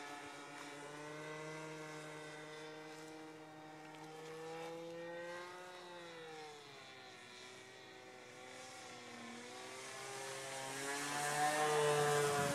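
Glow-fuel engine of a radio-control P-51 model plane running in flight. Its note falls in pitch about six seconds in as it passes, then grows louder near the end as it comes close again.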